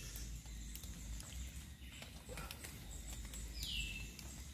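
A bird's short falling call, once about three and a half seconds in, over faint scratching and clicks of a hand digging into a crab burrow among dead leaves, with a steady high whine behind.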